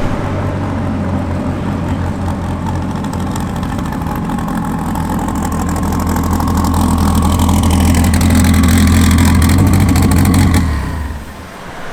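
Twin-turbo 8.4-litre V10 of a Gen V Dodge Viper running at low, steady revs as the car drives back slowly, growing louder as it comes closer, then stopping near the end.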